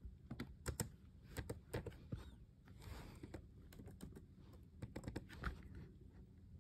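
Irregular clicks and taps of typing on a computer keyboard, in uneven runs with short pauses.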